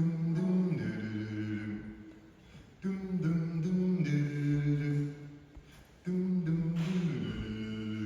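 A cappella vocal group singing a wordless introduction in close harmony, held chords in three phrases of about two seconds each with short breaths between.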